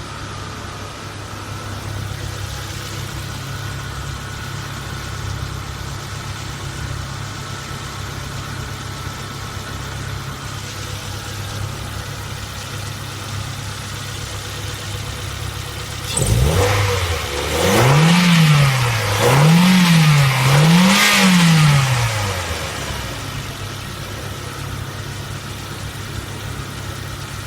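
Mazda FS-DE four-cylinder engine idling steadily, then revved: a climb about two-thirds of the way in, followed by three quick blips over about six seconds, before it drops back to a steady idle.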